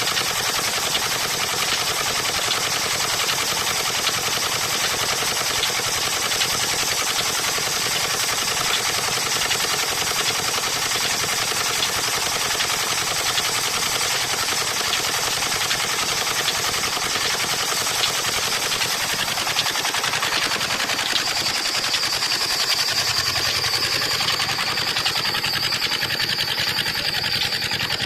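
Old 25 hp Petter stationary diesel engine running steadily with a rapid, even clatter. About 21 seconds in, a steady high whine joins it.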